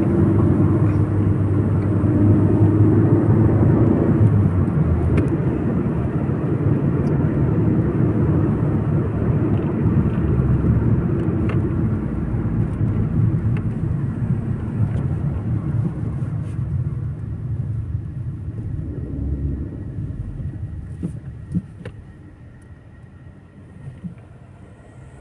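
Steady road and engine rumble of a moving car heard from inside the cabin, growing quieter over the last several seconds.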